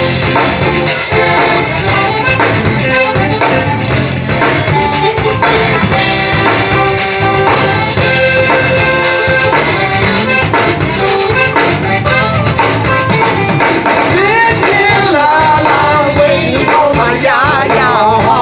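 Live zydeco band playing, with accordion and singing over a steady beat.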